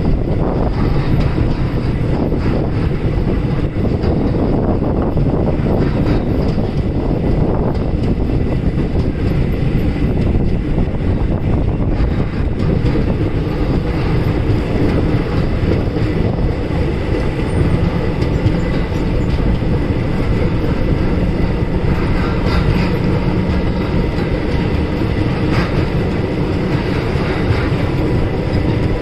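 Indian Railways passenger train running along the track, heard from on board: a steady loud rumble of the wheels on the rails with some clatter over the rail joints.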